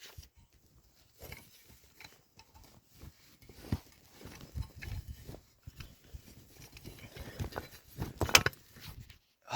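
Irregular rustling, scraping and small knocks of a person moving about and handling gear, with one sharp, louder knock near the end.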